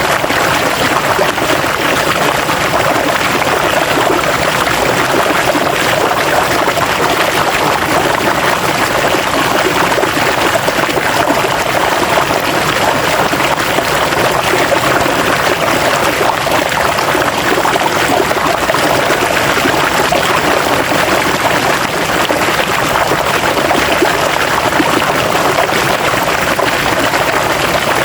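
River water flowing and babbling over rocks in a steady, unbroken rush.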